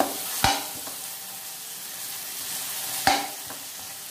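Sliced onions sizzling in butter and oil in a wok, stirred with a metal spatula; the steady sizzle is broken by sharp knocks of the spatula against the pan, loudest about half a second in and about three seconds in.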